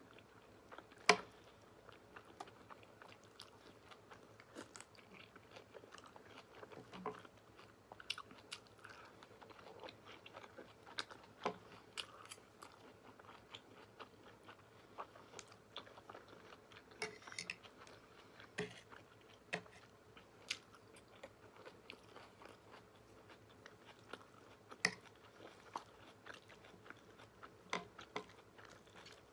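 Close-miked chewing and biting as a person eats, with scattered soft mouth clicks and crunches and a sharper click about a second in.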